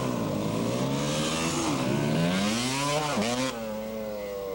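Motorcycle engine revving hard, its pitch climbing, dipping sharply about three seconds in, then holding steady.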